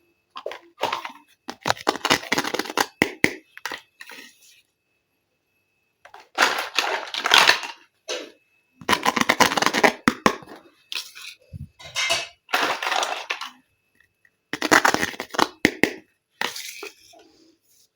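Plastic toy packaging and pieces being handled: bursts of crinkling and small plastic clicks, with short silences between.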